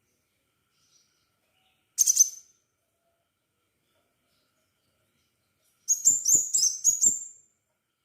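Crimson sunbird singing: a short burst of high, sharp notes about two seconds in, then a quick run of about five high notes near the end.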